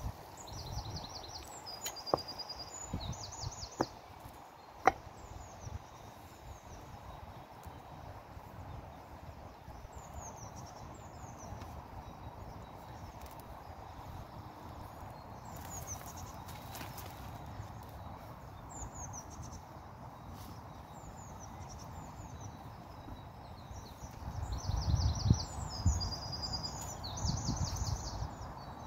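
Small birds singing in short repeated trills and chirps over a steady outdoor background hum, with a few sharp knocks in the first five seconds and a low rumble near the end.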